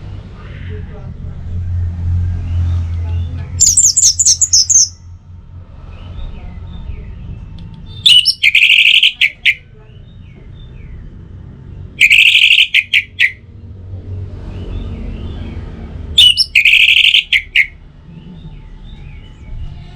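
Orange-headed thrush singing: four loud song phrases about four seconds apart, each a quick run of notes lasting a little over a second, the first one higher-pitched than the rest. Fainter chirps and a low rumble lie between the phrases.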